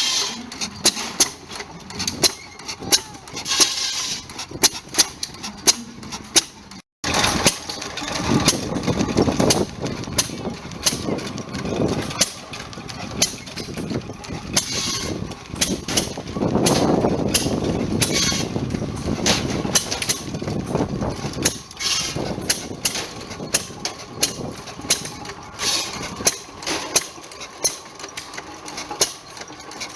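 A 1920 5 hp Monitor hit-and-miss gas engine running a wood saw, its firing strokes coming as sharp, irregularly spaced pops. Stretches of heavier, rougher noise come and go, most of all in the middle, as the saw works.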